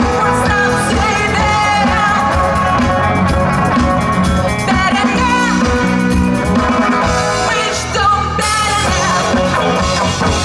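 Rock band playing live with a singing voice over bass, guitar and drums.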